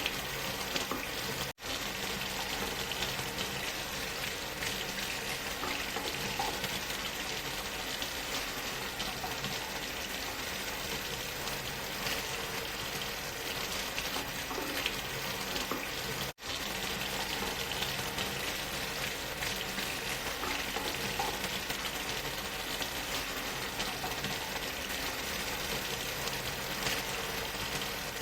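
Waterfall and white noise mixed together: a steady, even rushing hiss. It cuts out for a split second twice, about a second and a half in and again about 16 seconds in.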